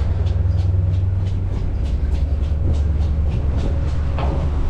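Car ferry under way: its engines and hull give a loud, steady, deep rumble, with a run of light, irregular clicks or taps over it, about three a second.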